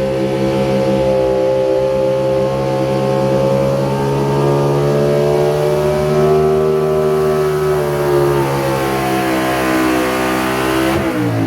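A pull vehicle's engine running hard at high revs while pulling the weight sled. Its pitch holds steady, sags slightly midway, and falls near the end as the engine comes down.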